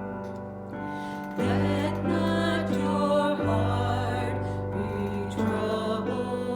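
Slow worship music on a keyboard: held chords over a steady bass, changing every couple of seconds.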